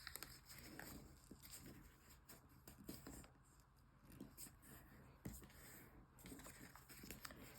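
Faint crinkling and creasing of origami paper being folded by hand, with scattered soft ticks as the folds are pressed.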